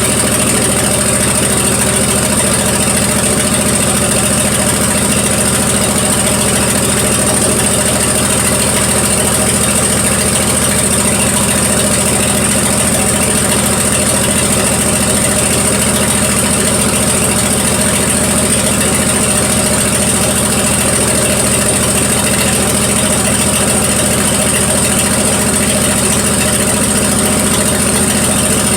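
1974 Plymouth Duster's slant-six engine idling steadily while warming up after a cold start, with a miss that the owner hears but cannot place.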